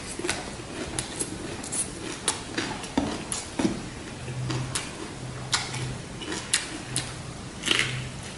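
Close-miked eating sounds of a fresh rice-paper roll with shrimp and pork: wet mouth smacks and chewing clicks, irregular and sharp, several a second at times.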